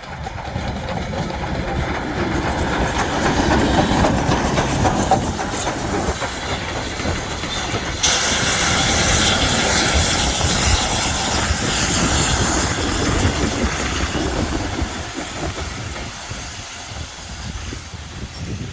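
USA S160 2-8-0 steam locomotive hauling a train, wheels clattering over the rail joints with steam hissing; the hiss rises suddenly about eight seconds in.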